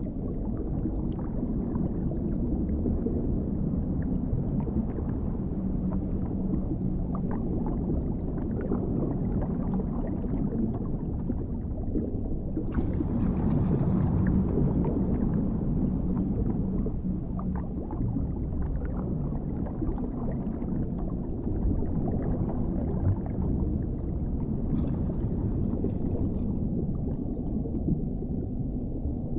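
Underwater ambience: a low, muffled rumble of water with scattered faint bubbling, swelling a little brighter about 13 seconds in.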